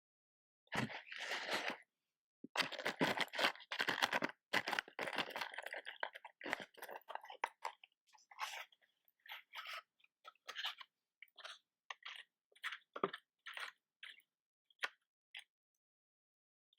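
Close-up crackling and crunching handling sounds. A short burst comes about a second in, then a dense run of crackles, then scattered single crackles and clicks.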